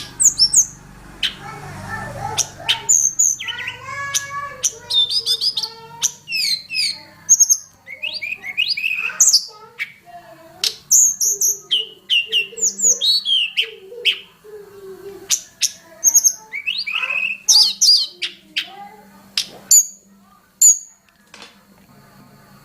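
Tledekan gunung songbird singing a fast, varied song of rising and falling whistles, trills and sharp chirps with brief pauses, thinning out near the end. A faint steady high tone runs behind it.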